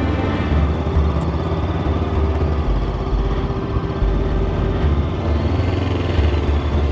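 Honda CB500X motorcycle's parallel-twin engine running at a steady, low pitch.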